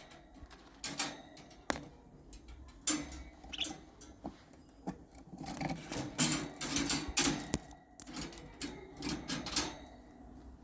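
Wire birdcage door and latch being opened: a run of sharp metallic clicks and rattles, sparse at first and coming thick and fast in the second half.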